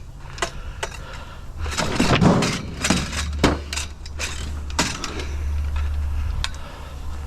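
Heavy curbside scrap being shifted and loaded by hand: a run of knocks and clanks, with a longer scraping rush about two seconds in, over a steady low hum.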